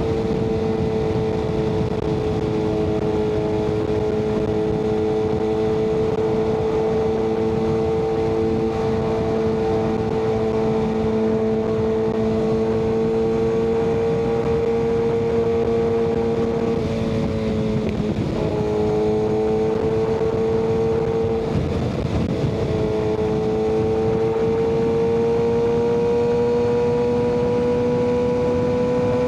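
Kawasaki ZX-6R inline-four with an M4 aftermarket exhaust, running at a steady cruise under way. Its pitch slowly climbs, dips briefly twice a little past halfway as the throttle is eased and picked up again, then rises steadily toward the end.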